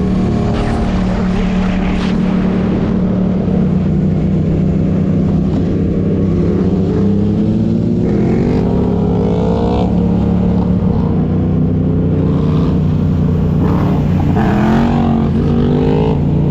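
Motorcycle engine running steadily, its pitch rising twice as the revs climb.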